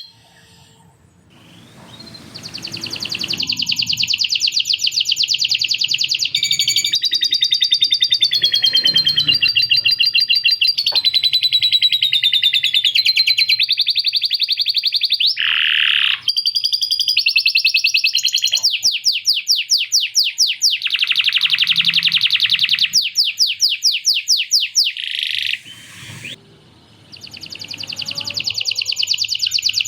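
Domestic canary singing long, fast rolls and trills, with rapidly repeated notes that change from phrase to phrase. The song carries learned lovebird-style chatter as fill. It breaks off briefly just after the start and again about 26 seconds in.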